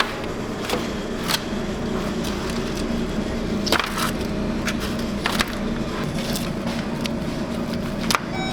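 A steady mechanical hum with scattered sharp knocks and clicks, about six spread over the stretch.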